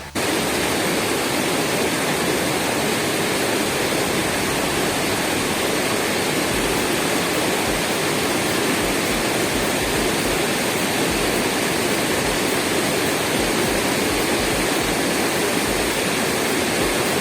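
Waterfall: a steady, loud rush of falling water, starting and stopping abruptly.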